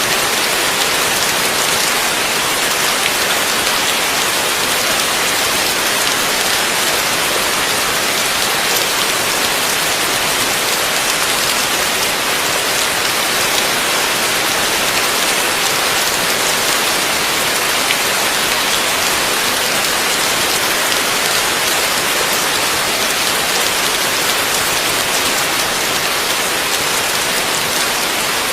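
Heavy rain falling steadily, a dense, even hiss of drops on surfaces without pause or thunder.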